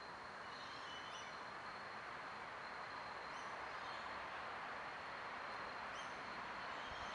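Outdoor ambience: a steady background hiss with a thin, steady high tone, and a few short, high bird chirps scattered through, two close together about a second in.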